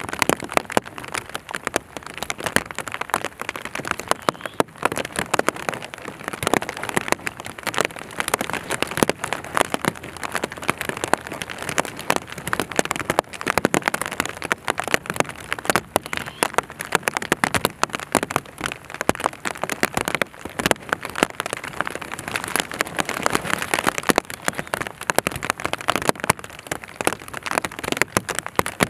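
Steady rain falling: a dense, continuous patter of individual drops.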